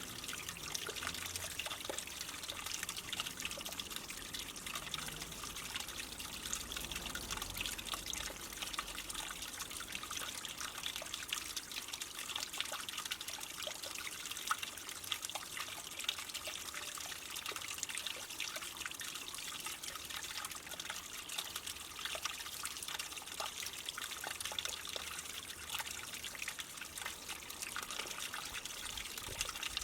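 Small garden-pond waterfall splashing steadily: water from a pre-formed spillway trickling over rocks into the pond.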